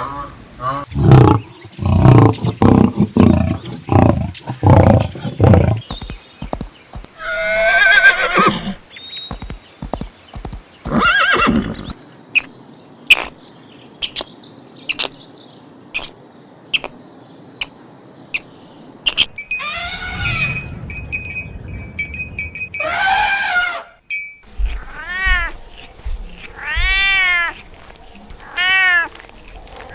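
A string of different animal calls cut one after another: a run of heavy low thuds for the first few seconds, then several separate calls, and near the end a row of short calls that rise and fall in pitch, about one a second.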